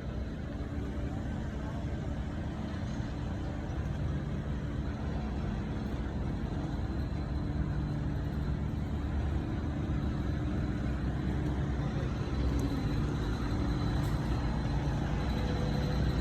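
Motor vehicle engine and road noise, steady and growing gradually louder, with a low engine hum that shifts in pitch.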